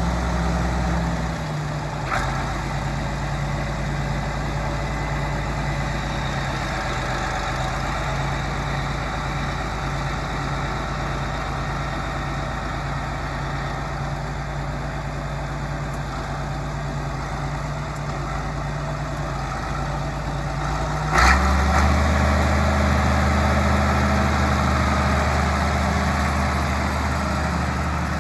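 Case 970 Agri King tractor engine running steadily at idle. About three quarters of the way through there is a sharp click, and the engine speeds up and runs louder at the higher speed.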